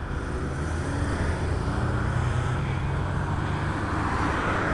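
City street traffic: vehicle engines humming and tyres on the road, a steady, fairly loud rumble.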